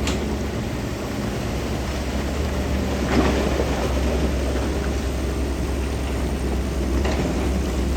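Heavy construction machine's diesel engine running steadily with a low rumble, with a louder clatter about three seconds in and a smaller one near the end, like stone or earth being moved.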